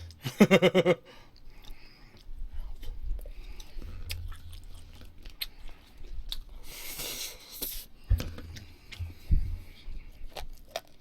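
Close-up chewing and biting of food, with many small wet mouth clicks and smacks. A short voiced sound comes right at the start, and a brief rustle about seven seconds in.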